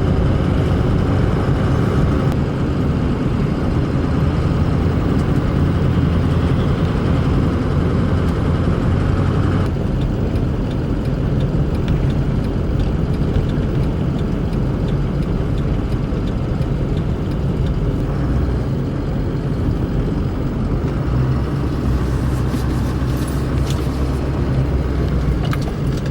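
Steady road and engine noise of a moving vehicle, heard from inside the cabin: a deep, even rumble. Some of the higher hiss eases off about ten seconds in.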